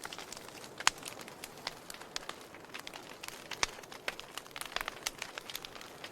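Wood fire burning in a fireplace: irregular sharp crackles and pops over a soft hiss, with louder pops about a second in and again past the halfway mark.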